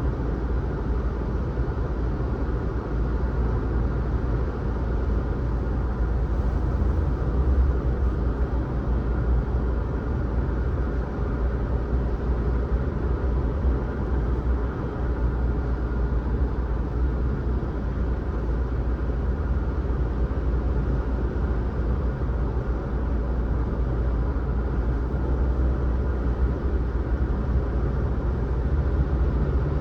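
Car driving along a road: a steady low rumble of engine and tyre noise with no distinct events.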